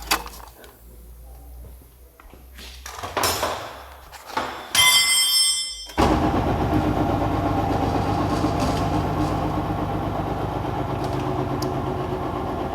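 Car engine started about six seconds in, catching abruptly and then idling steadily.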